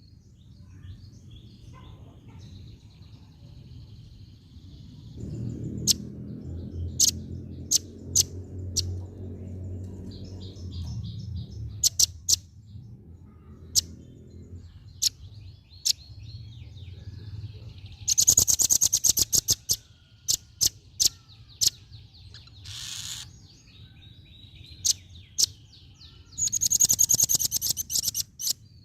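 Female velvet-fronted nuthatch calling: sharp, high single chip notes scattered through, and two loud, rapid trills of repeated notes, one about two-thirds of the way in and one near the end.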